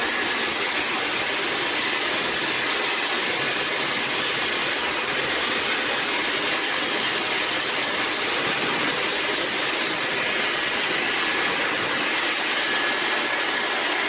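PLAVOGUE high-speed brushless hair dryer running steadily on its high speed setting: an even rush of air with a faint high whine from the motor.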